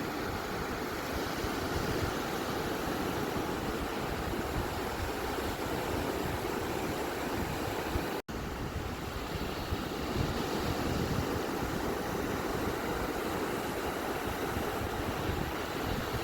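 Ocean surf washing on a beach as a continuous, even rush of noise, cut by a split-second dropout a little past halfway.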